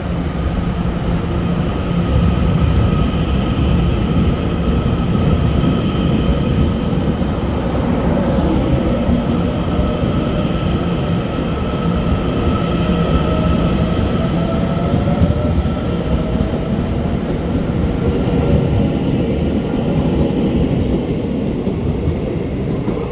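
Taiwan Railway electric train running past at close range: a loud, steady rumble and rattle of wheels on track, with high whining tones from the traction equipment. One tone slides up in pitch midway.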